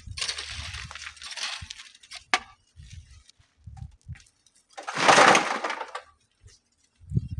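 Sand and gravel rushing and rattling, as when shovelled onto a sifting screen. There is one rush at the start, a sharp knock about two seconds in, and a louder rush about five seconds in that lasts about a second.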